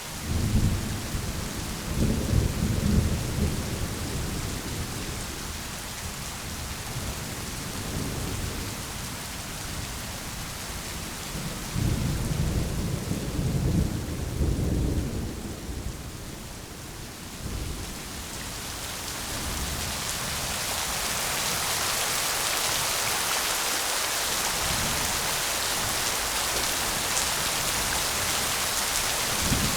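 Rain falling steadily during a thunderstorm, with a low roll of thunder right at the start and another about twelve seconds in. The rain grows heavier from about twenty seconds in.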